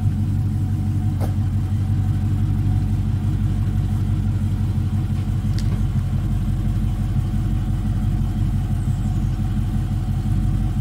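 A 2020 Dodge Charger Daytona's 392 HEMI V8 idling steadily, with an even low rumble and a couple of faint clicks.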